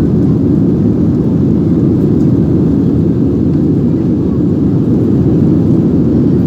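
SpiceJet airliner's engines during take-off: a loud, steady low rumble that does not change.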